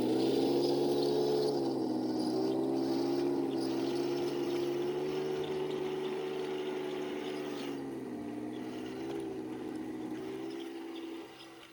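Electric drive motors and gearboxes of an RC M46 Pershing model tank whining, the pitch dipping and rising as its speed changes, gradually getting quieter and dropping off near the end.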